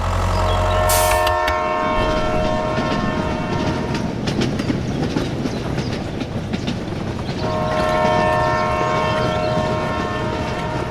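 A multi-tone horn sounds two long held blasts, one at the start and one near the end, over a continuous rumbling, clattering noise.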